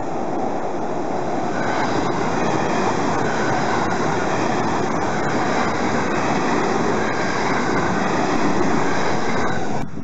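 JR West stainless-steel suburban electric train running past close by: a steady rumble and rush of wheels on rail with faint regular clicks. It cuts off suddenly near the end.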